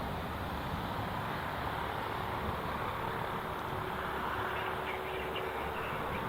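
Strong wind rushing over the microphone, with a faint steady engine hum from a light aircraft coming in about halfway through.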